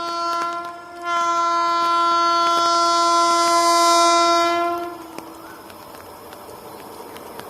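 Indian Railways locomotive air horn: a blast that breaks off just under a second in, then a long steady blast lasting about four seconds. After the horn stops, the train runs by with a steady rumble and faint clicking of wheels on the rails.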